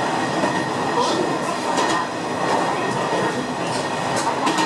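A train running along the track, heard from inside the car: a steady running rumble with a few occasional clicks from the wheels.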